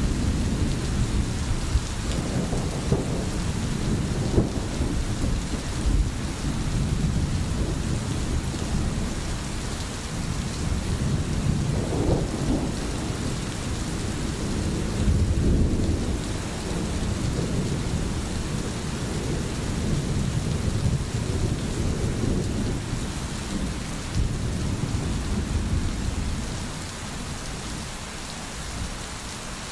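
Steady rain hissing, with thunder rumbling low and rolling underneath; the rumble eases off near the end.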